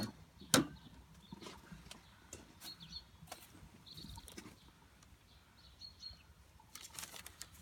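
A sharp knock about half a second in, then scattered light taps and clicks of equipment being handled, with faint short bird chirps in the background.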